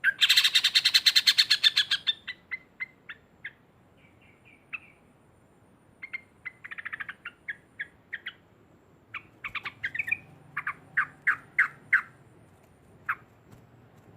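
Yellow-vented bulbul giving a loud, rapid chattering call (ngekek) for about two seconds, followed by scattered short sharp notes, a shorter chatter near the middle and another run of notes later on.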